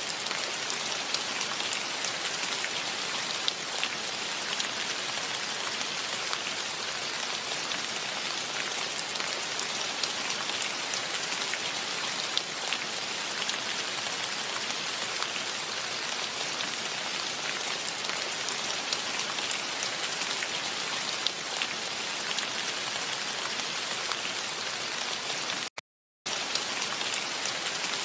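Steady gentle rain falling in a forest, a dense hiss of many drops with fine individual drop ticks. Near the end the sound cuts out completely for about half a second.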